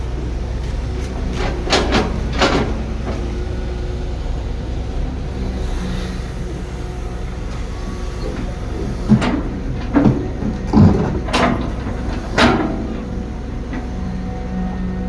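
Heavy construction machinery running with a steady low rumble, with scattered sharp metallic clanks and knocks: a few about two seconds in, and a cluster later on.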